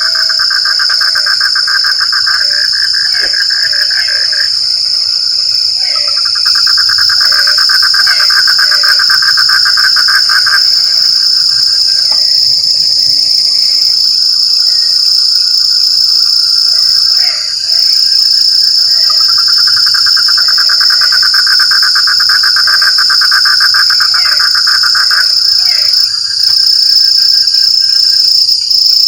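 Frogs calling in a chorus: bouts of fast pulsing trills lasting several seconds, with short croaks scattered between them, over a steady high-pitched insect trill.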